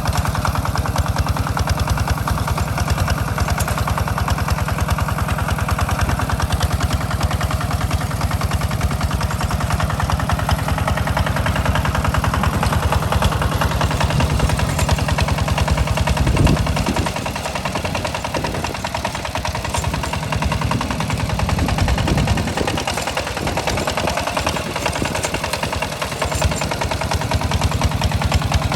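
Walk-behind hand tractor's single-cylinder diesel engine running under load with a fast, even chugging beat. A little past halfway the low beat weakens for several seconds, then comes back.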